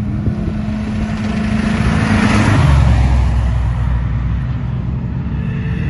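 Car engine running loud, with a rush of noise that swells and fades and the engine note dropping in pitch about halfway through, as a car goes by.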